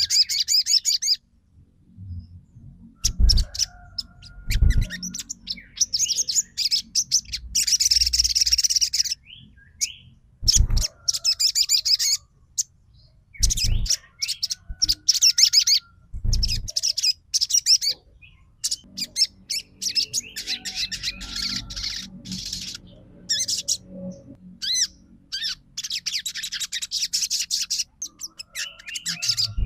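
Sogon songbird singing in rapid, high-pitched chattering trills ('trotol' style), delivered in bursts separated by short pauses, with a few dull low thumps between them. It is a lure song of the kind used to stir a silent sogon into singing back.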